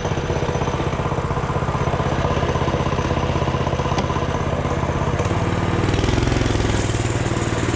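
Mini bike's small engine running with a steady, even pulse; a little over five seconds in its note shifts and grows slightly louder as the throttle or load changes.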